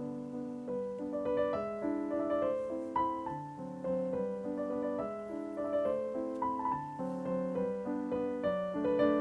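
Background piano music, a slow, gentle melody over held chords.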